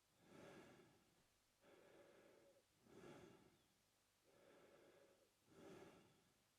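A man breathing through his mouth, slow and regular, quiet: three sharper, louder breaths alternating with two longer, softer ones, about one full breath cycle every two and a half seconds.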